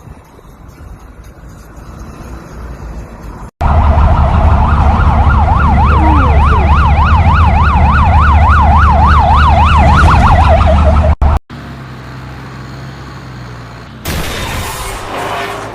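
Emergency-vehicle yelp siren, its pitch sweeping rapidly up and down about three times a second over a loud low rumble. It cuts in abruptly about three and a half seconds in after a rising rumble and stops suddenly around eleven seconds, leaving a quieter steady low hum.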